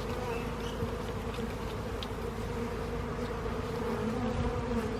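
Many honey bees buzzing around an opened hive, a steady hum made of many overlapping, wavering pitches.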